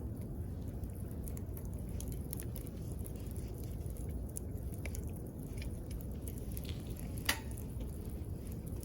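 Wood campfire crackling: scattered small pops and snaps over a steady low rumble, with one sharper, louder crack about seven seconds in.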